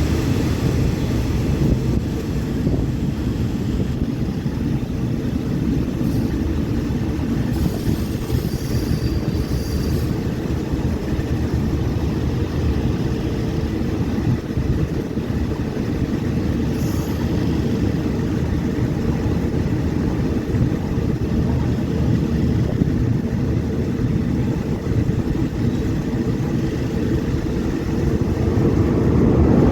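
Steady low rumble of a moving passenger train, heard from on board, growing a little louder near the end.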